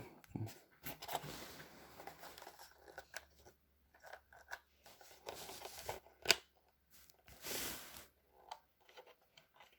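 Quiet handling of a cordless stick vacuum's plastic parts and battery: scattered clicks and rustling, with one sharp click about six seconds in and a short scrape nearly two seconds later. The vacuum motor is not running.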